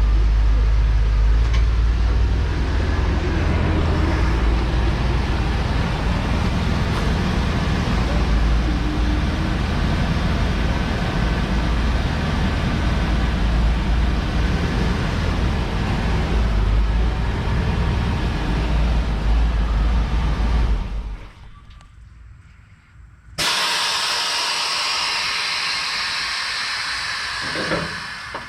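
A motor vehicle running with a deep, steady rumble that cuts out about 21 seconds in; about two seconds later a loud, steady hiss starts and runs nearly to the end.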